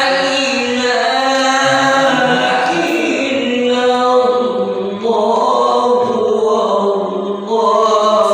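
A solo voice singing or chanting in long, held, wavering notes that slide between pitches, with a short break about five seconds in.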